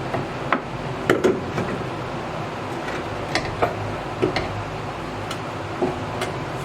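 Scattered sharp metal clicks and knocks from parts and tools being handled while a front strut assembly is fitted into a car, about eight at irregular intervals, over a steady background hiss.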